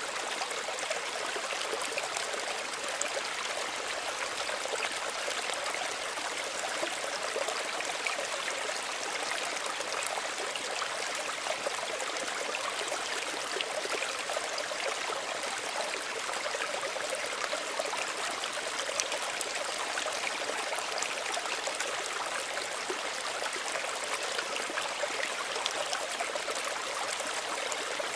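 Small stream running steadily over stones, a continuous bright splashing and trickling with no lulls.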